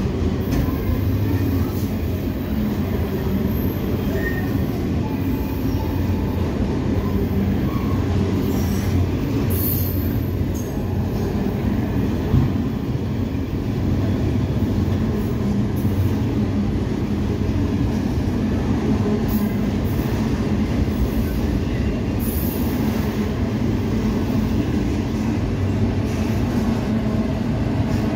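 Autorack freight cars rolling steadily past close by: a continuous rumble of steel wheels on rail. Faint high wheel squeals come through here and there, and there is a single sharper knock about twelve seconds in.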